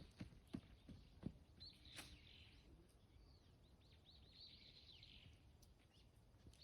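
Near-quiet outdoor ambience with a bird chirping faintly in quick repeated notes through the middle, and a few soft clicks in the first second.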